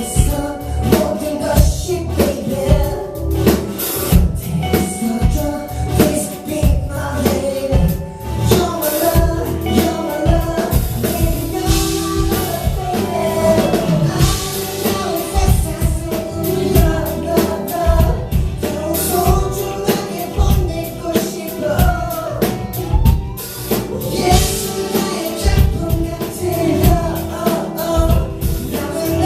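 Live pop song played over a concert sound system: a steady drum beat and backing music with a voice singing over it.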